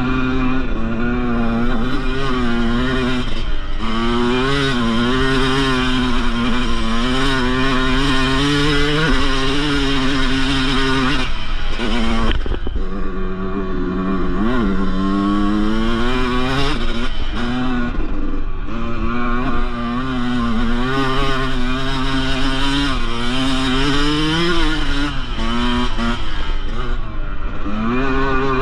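Yamaha YZ125 single-cylinder two-stroke dirt-bike engine under way, revving up and falling back over and over as the throttle is worked. It drops off briefly at about twelve seconds, then winds up in a long rising rev.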